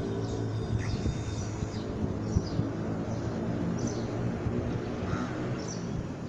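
Small birds chirping in short high calls, about once a second, over a steady low hum.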